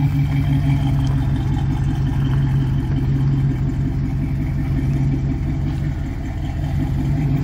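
1966 Pontiac Catalina wagon's engine running steadily at a low idle with a fast, even low pulse, easing a little near the end.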